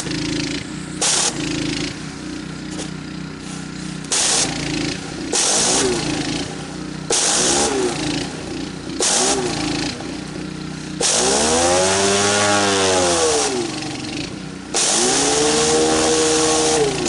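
Gas pressure washer engine running cold and unsteady, with bursts of spray hiss each time water is let through. Under each burst the engine bogs down, its pitch sagging and then recovering, as if about to stall because it has not yet warmed up.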